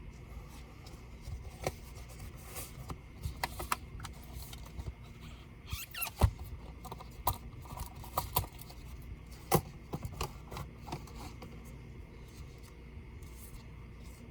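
Dell Vostro 13 5310 laptop being handled for disassembly: scattered light clicks and taps, with a short scrape about six seconds in. The sharpest clicks come near six and near nine and a half seconds.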